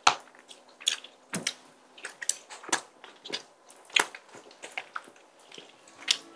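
Close-miked chewing of tteokbokki, chewy rice cakes and fish cakes in a thick, sticky sauce. Wet mouth sounds and lip smacks are broken by irregular sharp clicks, the loudest right at the start.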